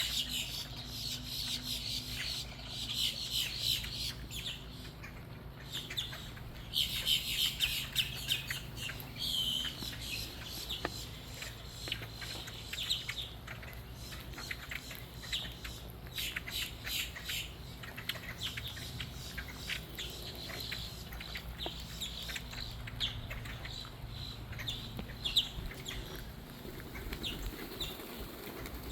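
Birds squawking and chattering, many short harsh calls coming in busy bursts, with a steady low hum underneath.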